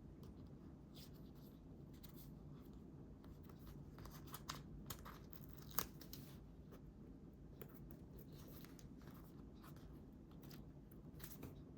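Faint paper-handling sounds: scattered rustles and tearing of paper, with one sharper click about six seconds in, over a low steady room hum.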